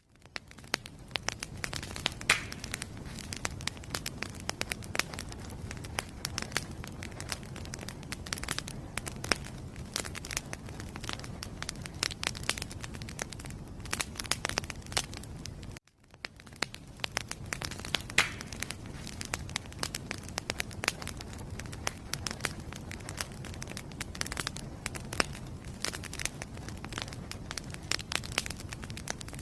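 Wood fire in a fireplace crackling, with many irregular sharp pops and snaps over a low steady rumble of the flames. The sound cuts out briefly about halfway through and fades back in.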